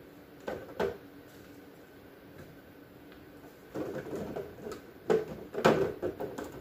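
Containers and jars being handled and set down in and around a refrigerator: two short knocks about half a second in, then a longer run of clattering knocks and rustling in the second half.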